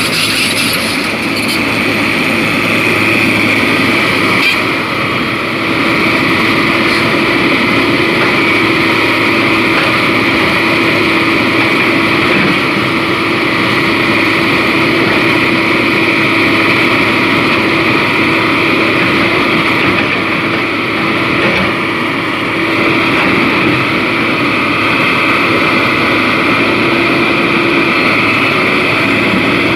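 Excavator's diesel engine running steadily, with a constant hum and a steady high whine.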